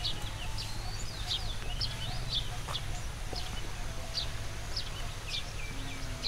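Birds chirping and calling in the open, short high chirps and whistles a few each second, over a steady low rumble.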